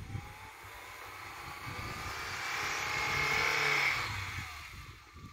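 Lada Niva's engine working hard as the 4x4 pushes through deep snow. The revs climb and it grows louder, peaking about four seconds in, then eases off.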